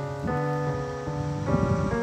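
Background piano music: a slow melody of held notes changing every half second or so.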